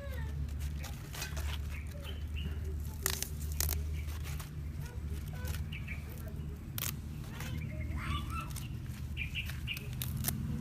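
Small birds chirping now and then over a steady low hum, with a few sharp clicks and knocks scattered through.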